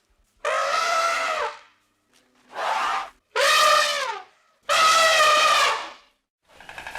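An animal calling four times in short, high-pitched cries, several falling in pitch at the end.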